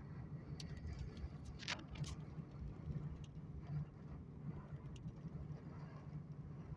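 A vehicle's steady low rumble, with a few brief high squeaks or ticks, the clearest about two seconds in.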